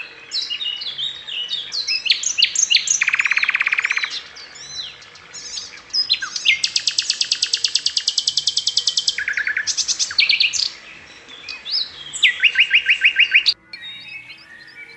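Domestic canary singing: a varied song of quick chirps and fast rolling trills, the longest held for about two and a half seconds. The song cuts off suddenly near the end.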